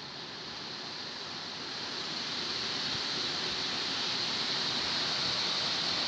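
Strong wind blowing in a steady rush that grows louder over a few seconds.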